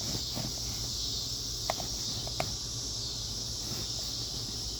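Steady high-pitched chorus of insects such as crickets, with two brief high chirps about a second and a half and two and a half seconds in.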